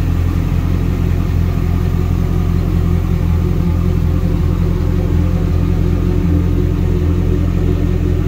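A 2002 Pontiac Trans Am WS6's LS1 V8 idling steadily, heard from underneath the car near its exhaust.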